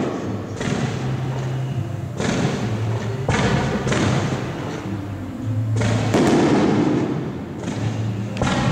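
Aerial firework shells bursting overhead: about six booms one to two seconds apart, each trailing off in a rushing decay.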